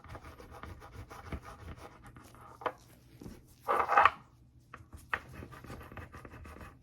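Alcohol swab scrubbing the rubber tops of insulin vials: scratchy rubbing with small clicks, and a louder brief rustle about four seconds in.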